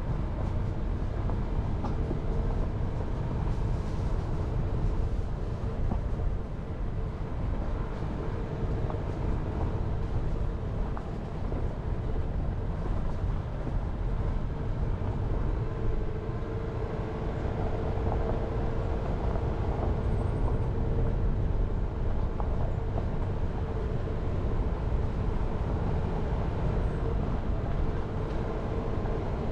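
Jeep Renegade driving along a mountain forest road: a steady low rumble of tyres and engine, with a faint steady whine that grows a little stronger past the middle.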